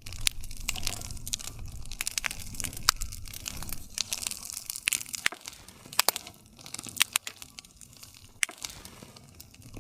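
Wood campfire crackling, with irregular sharp snaps and pops from the burning wood over a low rumble of flames; the loudest snaps come about three and six seconds in.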